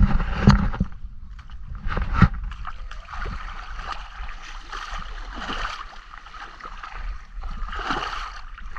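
Shallow seawater sloshing and splashing as someone moves through it, with a couple of sharper splashes in the first few seconds.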